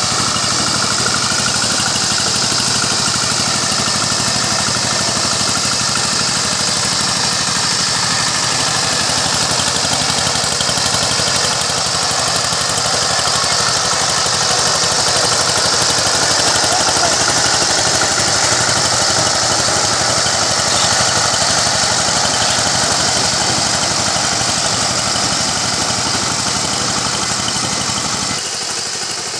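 Power tiller engine running steadily while it tills muddy paddy land. Near the end the sound drops in level and changes character.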